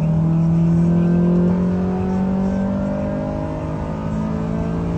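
Honda Prelude's four-cylinder engine pulling in gear while driving, its pitch climbing slowly for the first two seconds or so, then holding and easing off a little, over low road rumble.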